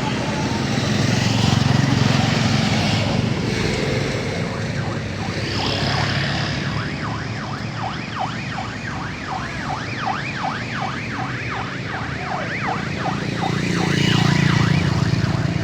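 Heavy vehicle engine running with a low drone that swells twice; from about halfway through, an electronic siren sounds in a fast yelp, its pitch sweeping up and down about three times a second.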